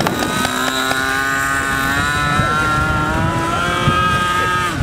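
A .60-size RC airplane engine running at high revs in the air as a steady buzzing note. The note rises in pitch about three and a half seconds in and cuts off abruptly near the end. Wind rumbles on the microphone underneath.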